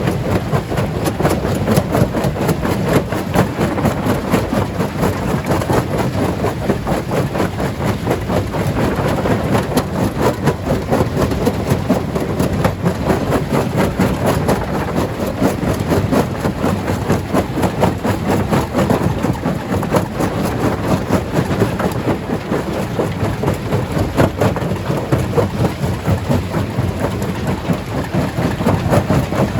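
Stone crusher running with a loud, steady rumble and a dense, continuous clatter of rock being broken.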